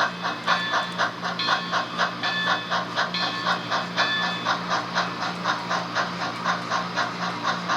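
Steam locomotive exhaust chuffing at a steady pace, about four to five chuffs a second, over a steady low hum, as played by an HO scale model steam locomotive's sound system.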